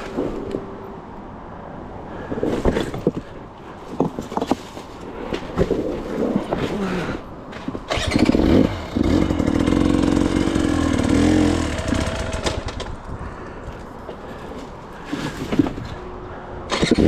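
Dirt bike engine working at low revs, throttled up harder for a few seconds around the middle, as it picks its way down a steep descent. Knocks and clatters of the bike hitting big loose rocks run through it.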